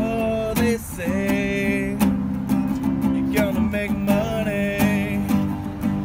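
Music: a strummed acoustic guitar with regular strokes and sustained melody notes.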